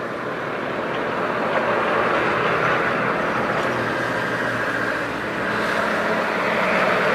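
Jet airliner's engines, a loud steady rushing noise with a faint whine. It grows louder about two seconds in and again near the end as the aircraft passes.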